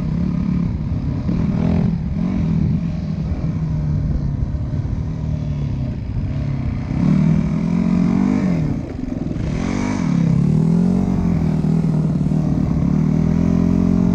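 Dirt bike engine running, its pitch rising and falling as it is revved a few times partway through, then settling into a steady note.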